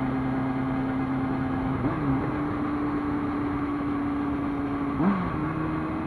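Kawasaki ZX-6R inline-four engine running steadily at motorway speed under a broad rush of wind noise, with two brief changes in engine pitch, about two seconds and five seconds in, each leaving the tone a little higher.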